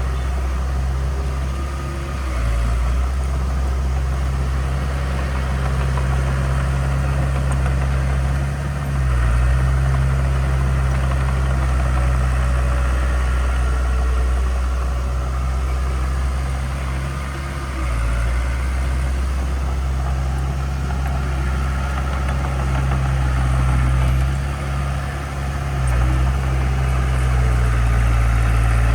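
Heavy diesel engine of an earthmoving machine running steadily with a deep low note, its level dipping briefly and picking up again a few times.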